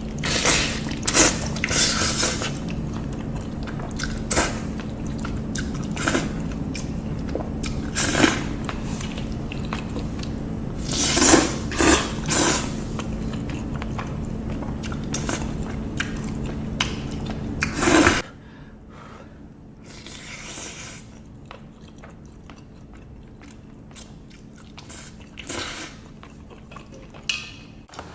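Close-miked eating: big bites and chewing, with sharp crunches and wet mouth clicks. A steady low hum under the first two-thirds stops abruptly, and the chewing after it is quieter and sparser.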